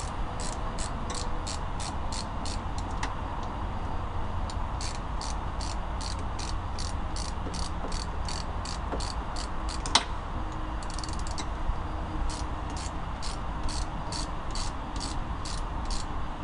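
Ratchet wrench clicking in a steady rhythm, about three clicks a second, as a bolt on a motorcycle exhaust is tightened. The clicking pauses twice, and a single sharp knock is heard about ten seconds in.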